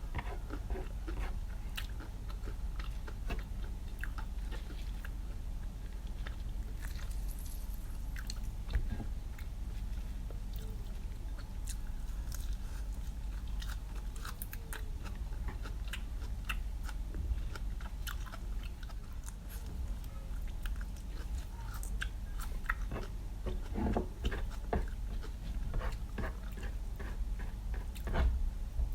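Close-up chewing and biting of food, with many small, irregular crunches, over a low steady hum.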